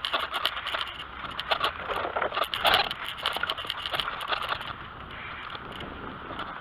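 BMX bike riding over a rough dirt trail: tyres crunching and scraping on the ground while the bike rattles in many sharp clicks, busiest and loudest about two and a half seconds in.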